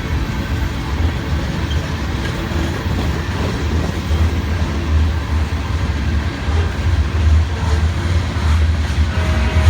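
Freight train passing close by: a steady low, throbbing rumble with wheel-on-rail noise.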